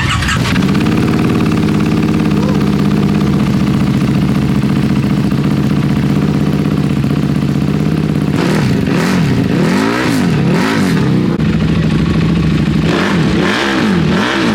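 A motorcycle engine running steadily, then, about eight seconds in, revved in a run of quick throttle blips, its pitch rising and falling with each one, with a few more blips near the end.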